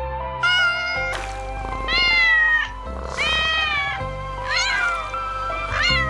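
A cat meowing several times, with calls that bend up and down in pitch, over background music with sustained notes and a low bass.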